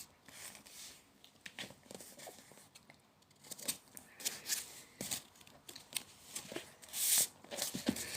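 A sheet of A4 paper being folded and creased by hand: scattered crinkles and rustles, with a longer rustle about seven seconds in.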